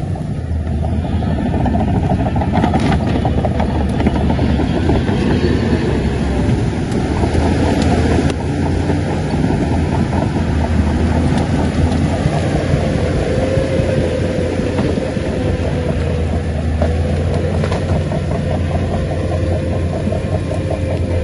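Shantui crawler bulldozer's diesel engine running steadily while the dozer works, with its tracks rattling and a few sharp knocks. A steady whine comes in about two-thirds of the way through.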